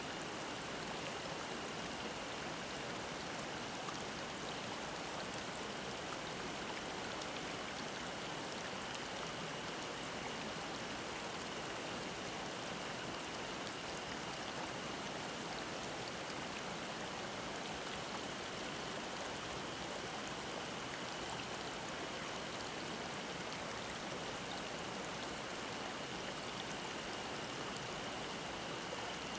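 Mountain stream babbling steadily over rocks, a continuous rush of water. A faint, steady high cicada drone sits over the water.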